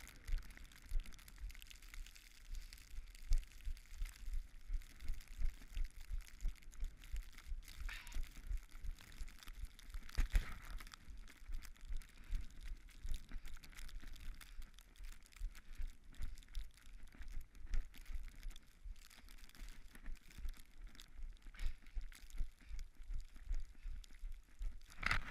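Running footsteps in snow, a steady low thump about three times a second, over a steady hiss of wind and snow on the microphone.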